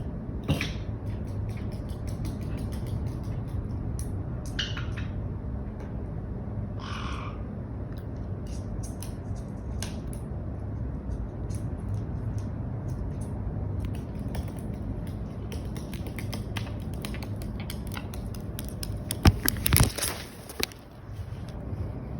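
Black-headed caique moving and handling things over a steady room hum: scattered small clicks and two short calls, with a few louder knocks near the end.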